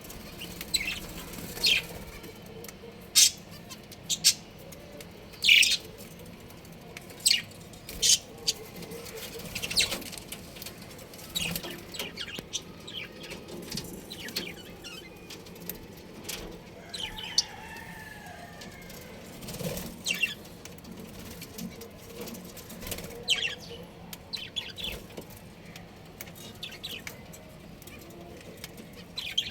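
Budgerigars chirping in short, sharp, high calls at irregular intervals, with the loudest calls in the first third.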